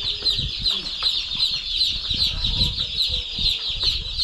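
A brood of chicks peeping all at once: a dense, unbroken chorus of many short, high, falling cheeps.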